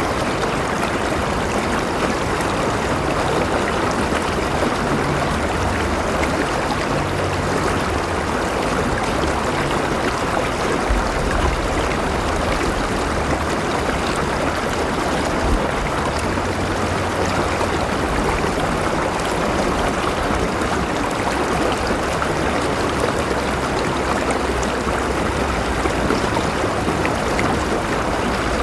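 River water flowing steadily, a continuous rushing and burbling with a low rumble underneath.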